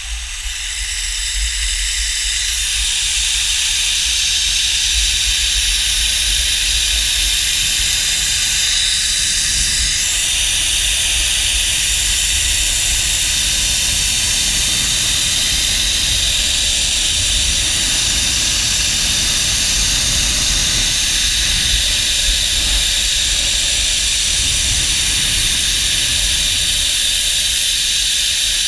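Zipline trolley pulleys running along the steel cable as the rider descends: a steady high hiss that builds over the first couple of seconds as the rider picks up speed, then holds. A low wind rumble runs underneath.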